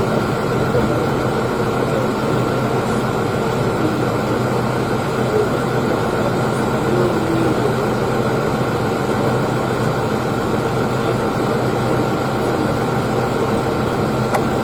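Vehicle engine idling steadily, a continuous low hum with a faint higher whine over it.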